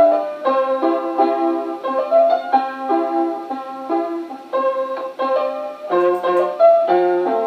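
Solo keyboard instrument playing a melody over held chords, with a lower bass part coming in about six seconds in. An old home tape recording that runs a little fast, so the pitch is higher than it was played.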